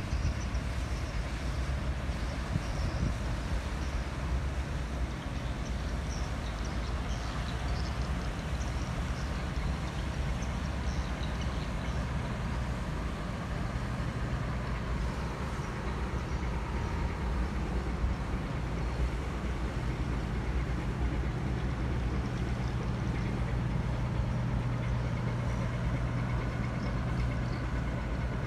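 Big tugboat's diesel engine droning steadily while it tows a barge, a low hum that grows stronger a little past halfway, over a steady hiss.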